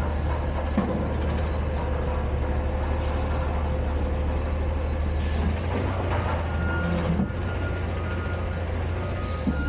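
Autocar/Heil Freedom front-loader garbage truck running, its diesel engine droning steadily, with a steady whine through the first half and several clanks and knocks.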